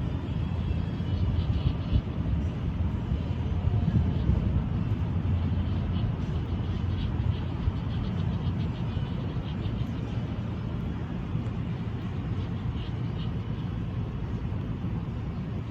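Steady low rumble, with faint short bird chirps now and then.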